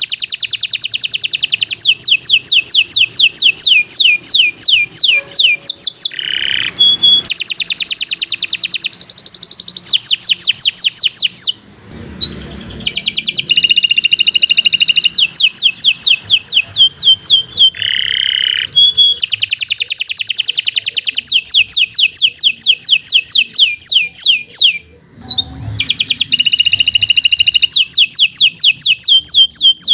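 Domestic canary singing long phrases of fast trills, each a rapid run of repeated sweeping notes. The song breaks off briefly twice.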